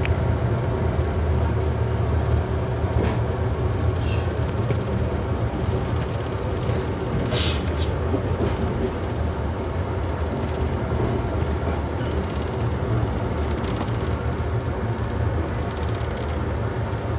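Steady low rumble of a passenger train carriage rolling along the rails, heard from inside the coach, with a few brief clicks and squeaks from the wheels and track.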